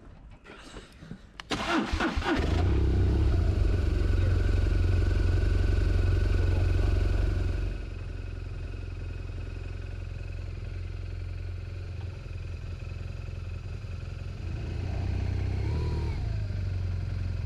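BMW R1200GS Adventure's flat-twin boxer engine cranked on the starter about two seconds in, catching and running at a steady idle. The sound gets somewhat quieter about eight seconds in.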